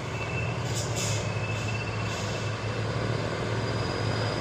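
Heavy truck engine running with a steady low drone, as the truck labours on a steep climb.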